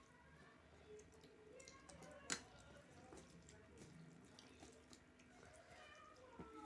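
Quiet eating sounds: faint wet mouth and hand noises, with one sharp click a little over two seconds in.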